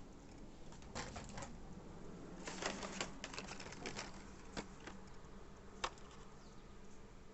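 Packaging and small items being handled: clusters of short, sharp clicks and crinkles about a second in and from about two and a half to four seconds, then a single sharp click near six seconds.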